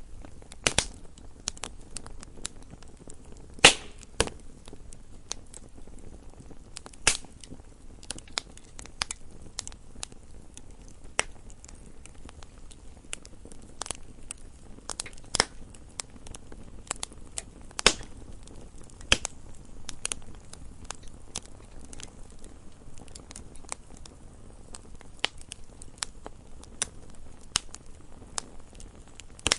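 Wood fire crackling in a fireplace: irregular sharp pops and snaps over a low steady hiss, with a few louder pops, the loudest about four seconds in.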